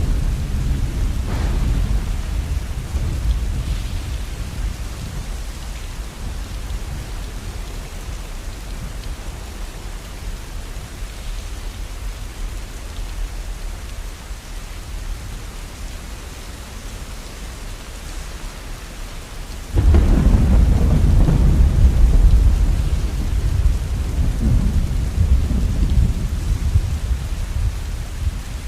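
Steady rain with thunder: a low rumble dying away over the first few seconds, then a sudden loud peal of thunder about twenty seconds in that rolls on for several seconds.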